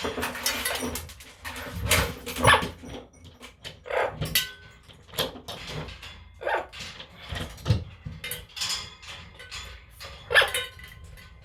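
A pet animal calling in short, sharp calls, roughly one a second, some with a thin whistling tone.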